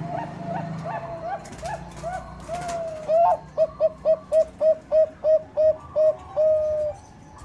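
Zebra dove (perkutut bangkok) cooing: a fainter series of short notes with upward flicks, then from about three seconds in a loud, evenly paced run of about a dozen short staccato coos, ending on one longer drawn-out note.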